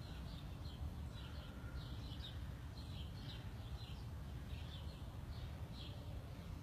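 Small birds chirping over and over, short high chirps at about two a second, over a steady low rumble.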